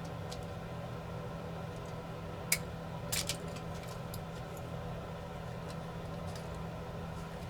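Small clicks of tools and plastic as a wire connector is worked out of a drone's ESC board: one sharp click about two and a half seconds in and a short cluster of clicks just after, over a steady low hum.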